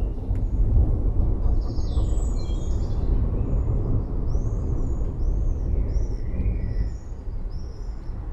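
Forest birds chirping, with short high arching chirps repeating about every half second through the second half, over a loud steady low rumble.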